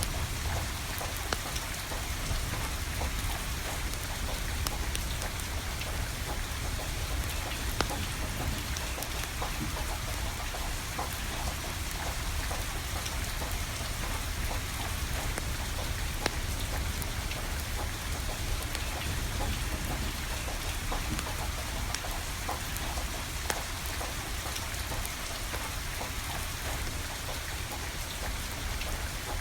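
Steady rain pattering, with scattered sharp crackles and pops from a burning wood fire and a steady low rumble underneath.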